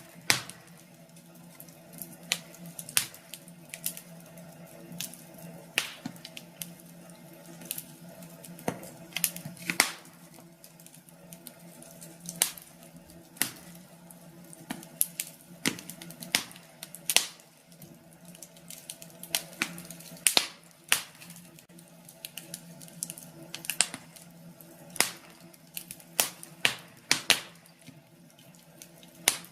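Wood fire crackling in a fireplace: irregular sharp pops and snaps, one or two a second, over a faint steady hum.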